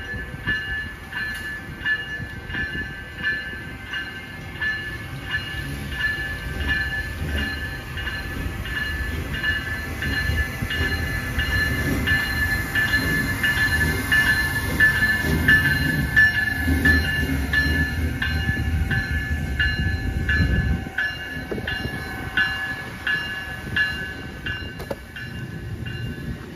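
Amtrak passenger train led by an ACS-64 electric locomotive passing close by, its wheels clicking regularly over the rail joints under a steady high whine. A low rumble builds, then drops away suddenly about twenty seconds in.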